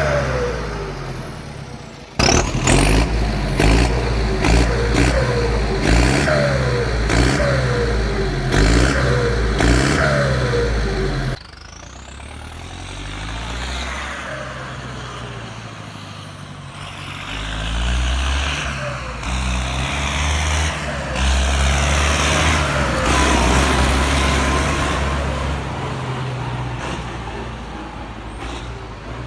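Belarus 1025.4 tractor's turbodiesel engine being revved in a series of short blips, with the turbocharger audible. About eleven seconds in it falls suddenly back to a lower running sound, then builds up again and holds for several seconds before easing off.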